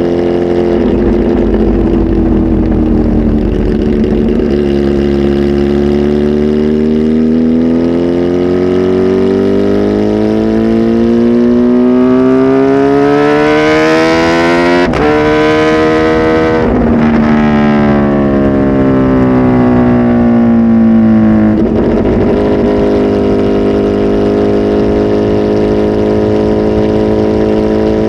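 Kawasaki Z H2 SE's supercharged inline-four, flash tuned and on a full exhaust, pulling hard: the engine note climbs steadily in pitch, dips briefly once, climbs again and then cuts off sharply. It then falls in pitch for a few seconds and settles into a steady drone.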